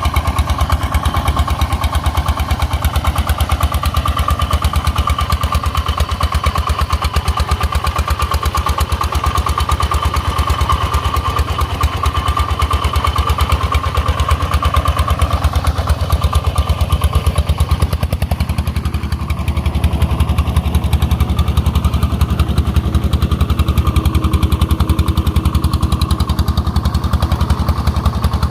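Công nông farm truck's single-cylinder diesel engine running with a fast, even chugging beat. About two-thirds of the way in the sound changes, with more low rumble.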